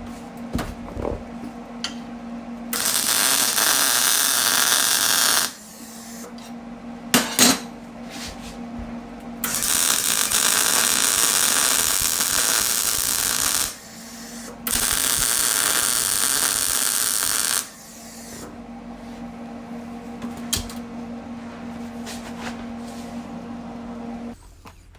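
MIG welder laying three short welds, each a steady crackling hiss lasting three to four seconds, with the welder's steady hum between them and a few metal clicks. The hum cuts off near the end.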